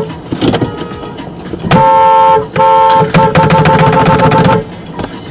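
Car horn blaring: two long blasts, then a rapid string of short toots that stops about four and a half seconds in, over road noise.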